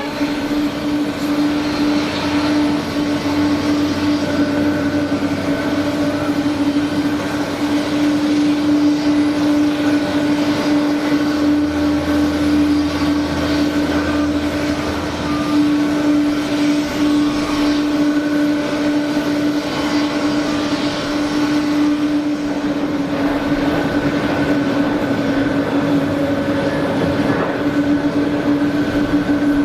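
Jet airliner's turbine whine: a steady tone over a continuous rush of apron noise. A low hum joins for a few seconds near the middle.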